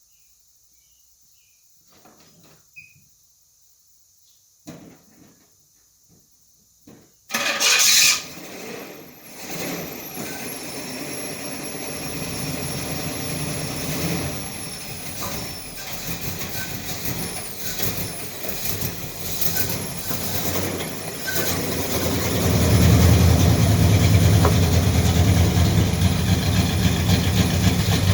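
A car engine is started about seven seconds in, catching with a loud burst, then runs unevenly at a fast idle, getting louder about three-quarters of the way through. The engine is still untuned.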